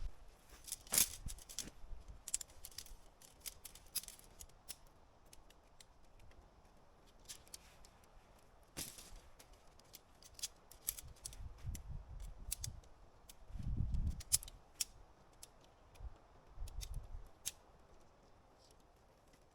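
Camping gear being handled during unpacking: scattered light, sharp clicks at irregular times, loudest about a second in, with a few low rumbles of wind on the microphone.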